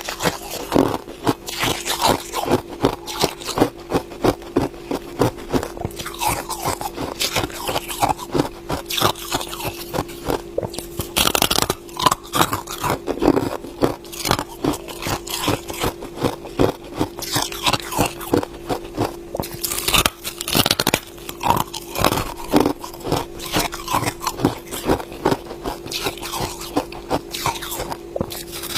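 Ice being bitten and chewed close to the microphone: dense, irregular crunching and crackling, several bites and chews a second, over a faint steady hum.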